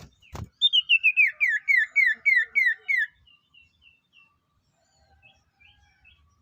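A sirtu bird singing: a quick string of about nine loud, clear whistled notes, each slurring downward, the string itself stepping down in pitch over about two and a half seconds. A short thump comes just before the song, and fainter chirps follow it.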